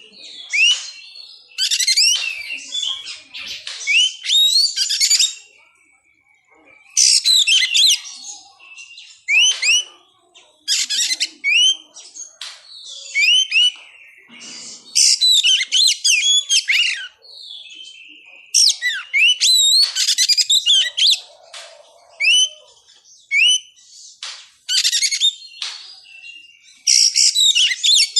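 Oriental magpie-robin (kacer) singing: about ten loud phrases of rapid, varied whistles and chirps, each lasting a second or a few, with short pauses between.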